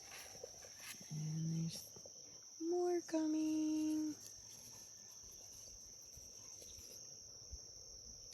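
Crickets chirring in a steady high-pitched drone. Three short, even hums stand out over it: a low one about a second in, then two higher ones close together around three seconds in.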